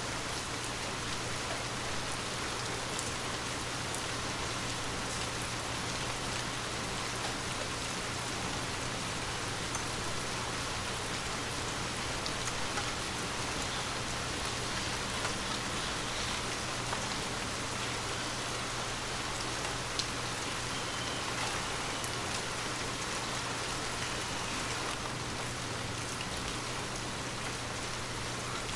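Steady rain pattering on a window pane, an even hiss with scattered sharp drop ticks, over a faint low steady hum.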